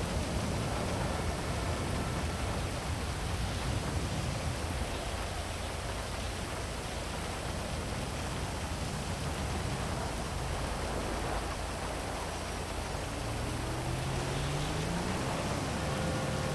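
Heavy rain falling over a city, a steady dense hiss. Near the end a low hum rises in pitch over about three seconds.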